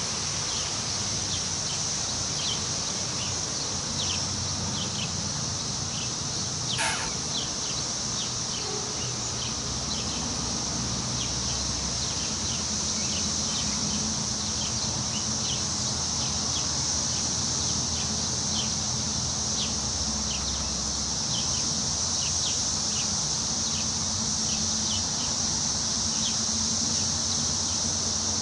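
Woodland ambience: a steady high-pitched insect chorus, with short bird chirps scattered throughout and one call sliding down in pitch about seven seconds in. A low rumble of wind in the trees lies underneath.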